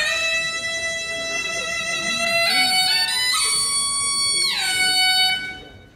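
Suona playing a single bright, reedy melodic line: it slides down into a long held note, steps up in pitch around the middle, then glides steeply down and fades away near the end.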